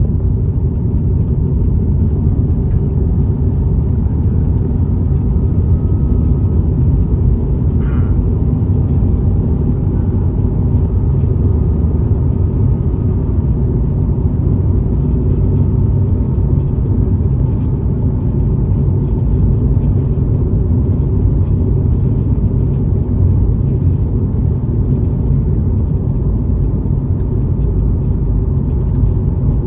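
Car driving along a highway: a steady low rumble of road and engine noise, with a faint whine above it and a brief click about eight seconds in.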